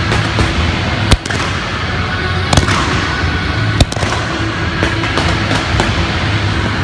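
Fireworks going off over music: sharp bangs, the loudest about one, two and a half and four seconds in, with smaller cracks after them.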